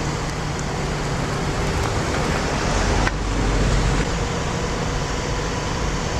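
Steady road and engine noise of a moving car, with a strong low rumble and one sharp click about three seconds in.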